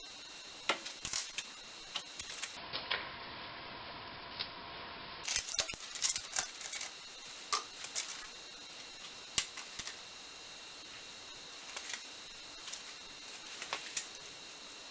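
Irregular metallic clicks and clinks of small steel lathe parts being handled and set down, as the gear cluster is taken out of a lathe's quick-change gearbox.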